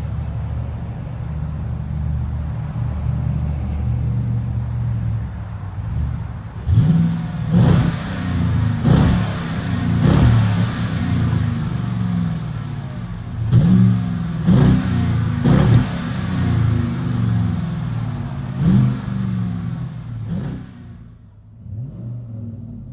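2015 Chevrolet Tahoe's 5.3-litre V8 through a Magnaflow true dual exhaust, idling steadily, then blipped in several quick revs from about seven seconds in, dropping back to idle between them. The sound fades away near the end.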